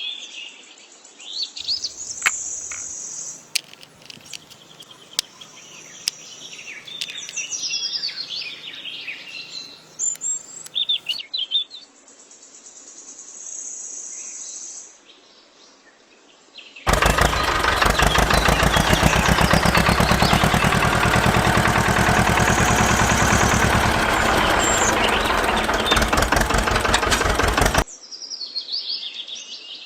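Small birds chirping over a faint steady hum. About halfway through, a loud, harsh, steady mechanical noise with a fast rattling rhythm starts; it runs for about ten seconds and cuts off suddenly, and the chirping returns.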